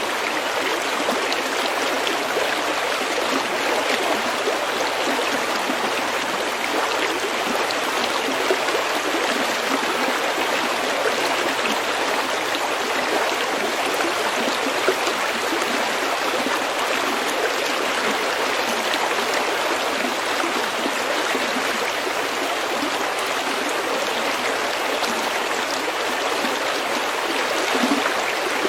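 Small stream running steadily over pebbles, an even babbling rush of water with no pauses.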